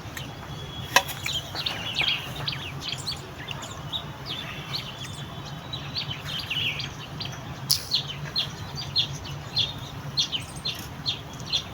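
Small birds chirping: many short high chirps, settling into a quicker, even series of chirps in the second half, over a low steady hum, with a sharp click about a second in and another near eight seconds.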